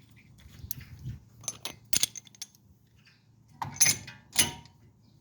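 Metal tools and brake parts being handled: a run of light clicks, then two louder metallic clanks in the second half, as a brake caliper piston wind-back tool is fitted.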